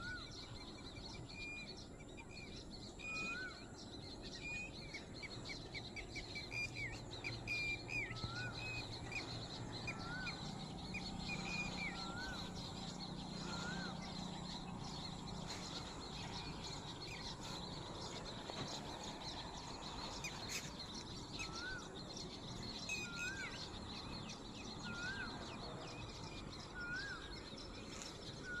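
Birds calling outdoors: one bird repeats a short rising-and-falling whistled note every second or two, while another gives quick runs of higher chirps during the first twelve seconds or so. A steady faint high drone runs underneath, and a low hum comes in for several seconds in the middle.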